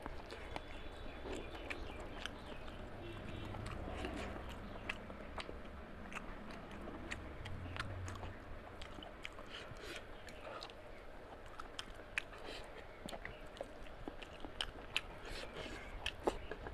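Close-miked wet chewing with many sharp lip smacks and mouth clicks, as a mouthful of mutton curry and rice is eaten by hand, along with the squelch of fingers working through curry-soaked rice and meat.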